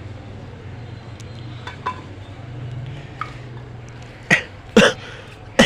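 Chicken being chopped with a knife: a few sharp, separate chops, the loudest three in the last second and a half, over a low steady hum.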